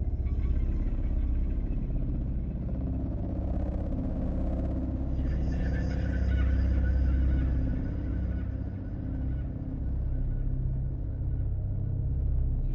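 Dark ambient drone: a deep, steady rumble under held low tones, with a fainter high, hissing layer that changes character about five seconds in.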